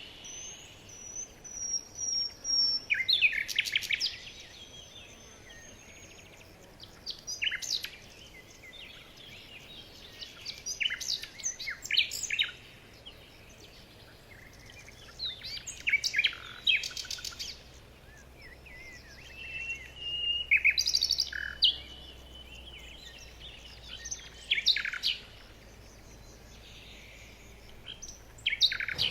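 Birds chirping and calling in short bursts of quick, sharp notes every few seconds, with a few brief held whistles between them.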